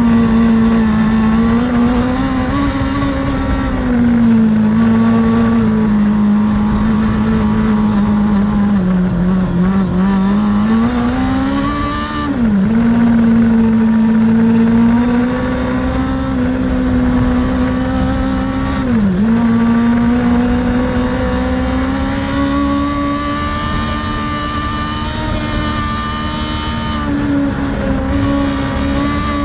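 Kartcross car's motorcycle-derived engine running hard at high, fairly steady revs through a race run, with two brief sharp dips in engine pitch and quick recoveries about 12 and 19 seconds in.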